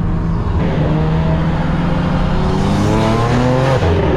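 BMW engine accelerating under way, its note climbing in pitch over the second half, with a drop near the end.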